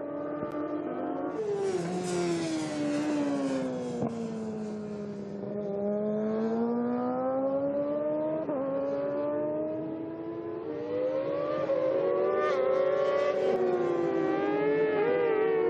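Several superbike racing motorcycle engines running on track at once, their pitches rising and falling as the bikes accelerate and slow through the corners. A louder, sharper engine sound comes in about a second and a half in and fades after a few seconds.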